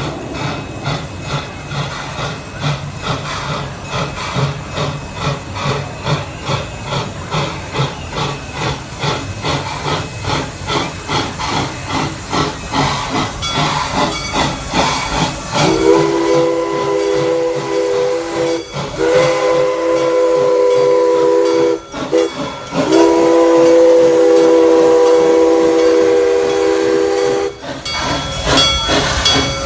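1971 Crown Metal Works 4-4-0 narrow-gauge steam locomotive working along with a steady, rhythmic chuff from its exhaust, about three beats a second. About halfway through its chime steam whistle sounds three long chords with short breaks between them, the last blast the longest, before the chuffing comes back.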